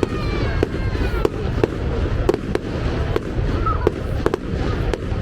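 Fireworks going off: a rapid, irregular string of sharp bangs and crackles, about three or four a second, over a steady low rumble, with several falling whistles in the first second or so.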